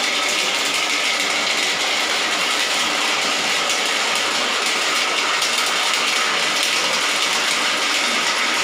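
Electric drain-cleaning machine running steadily, a continuous mechanical noise without change.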